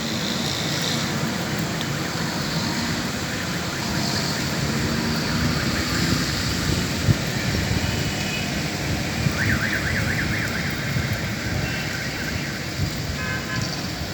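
Steady rain, a dense hiss. About two-thirds of the way in, a short electronic tone warbles rapidly up and down for about a second.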